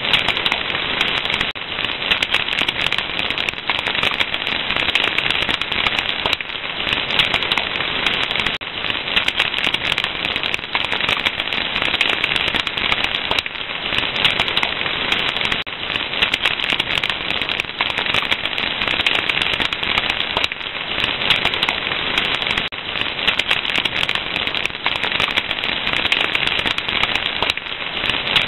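Fire crackling steadily: a dense, continuous stream of small pops and snaps with no pauses.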